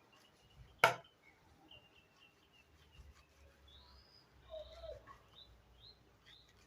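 Birds calling in short chirps and quick rising whistles, more of them in the second half, with one sharp knock about a second in that is the loudest sound.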